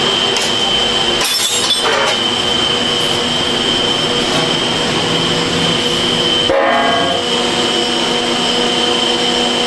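Loud, steady machine noise with a constant high whine over a lower hum, dropping out briefly about six and a half seconds in.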